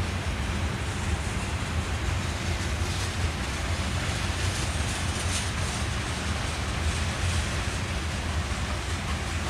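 Freight train of covered hoppers and tank cars rolling past: a steady rumble of steel wheels on the rails.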